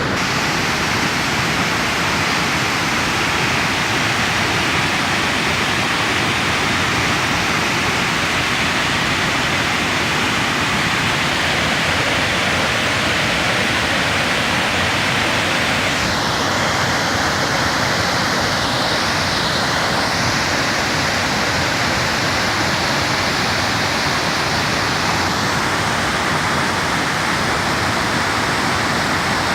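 Waterfall: steady, loud rushing of falling water. The tone of the rush shifts for about ten seconds after the middle, then returns.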